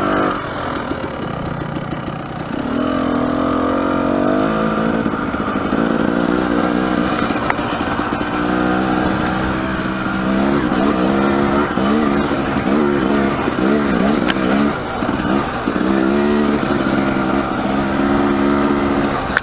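Dirt bike engine running under way, its pitch rising and falling repeatedly as the throttle is opened and closed.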